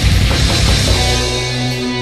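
Experimental black metal: dense distorted guitars and drums that break off about a second in, leaving a single held guitar chord ringing on.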